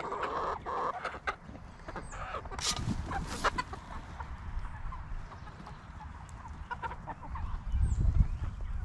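Young chickens clucking and moving about in the coop, with a couple of brief rustles about three seconds in; no rooster crows.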